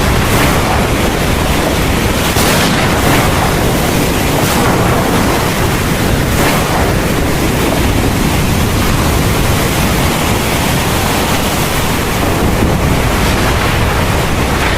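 Heavy thunderstorm rain pouring steadily, with a constant low rumble beneath it and a few brief swells in the downpour.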